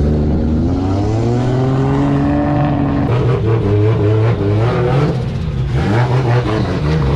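A drift car's engine revving hard on track. Its pitch climbs steadily over the first three seconds, then jumps and rises and falls as the throttle is worked.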